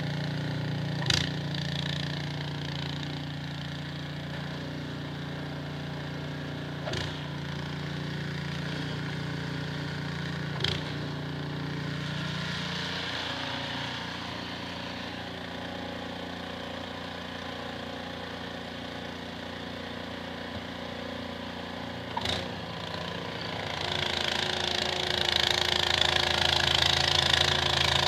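Small engine, likely a snowblower's, running steadily, with a few sharp knocks now and then. A louder rushing noise builds in the last few seconds.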